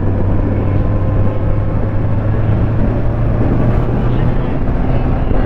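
Kawasaki Z1000 inline-four motorcycle engine running steadily at low, even revs.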